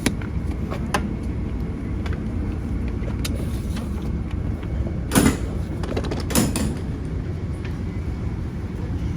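Steady low rumble of an Amtrak train, with a few light knocks and two louder clunks about five and six seconds in.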